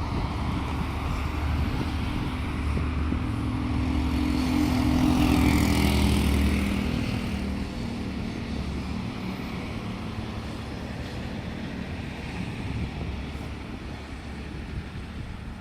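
A large vehicle's engine drawing near and passing, loudest about five to six seconds in, then fading away.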